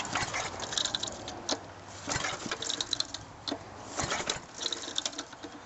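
Recoil pull starter of an old Briggs & Stratton lawnmower engine being pulled, turning the engine over with a clattering, mechanical sound and several sharp clacks.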